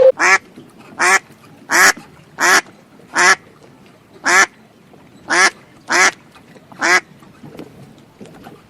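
An animal calling nine times in a regular series of short calls, then stopping about seven seconds in.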